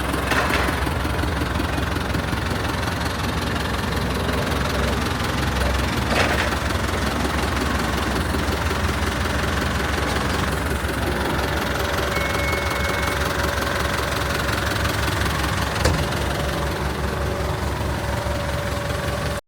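Ford 6640 tractor's four-cylinder diesel engine running steadily, with a few sharp clicks. A faint steady whine joins in about eleven seconds in.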